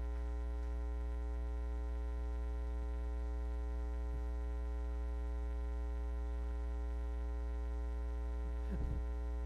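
Steady electrical mains hum, a low buzz with a stack of overtones, unchanging throughout.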